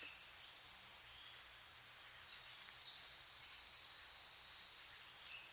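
Insects trilling high-pitched in stretches of about a second, with short gaps between them, over a steady faint hiss.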